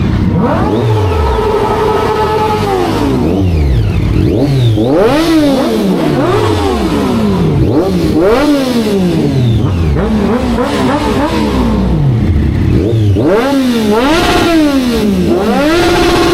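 Sport motorcycle engines being revved over and over, each rev climbing quickly and falling back, with several revs overlapping and a few held high for a second or two.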